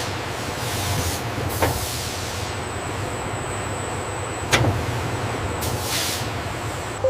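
Factory machinery running with a steady low hum. Several short hisses and two sharp clunks sound over it, the loudest clunk about four and a half seconds in.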